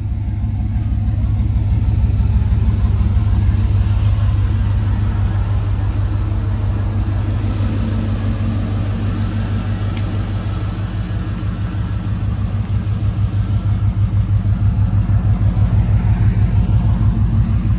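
Car engine running with a deep, steady exhaust rumble. In the last few seconds the exhaust note pulses in an even, rapid beat.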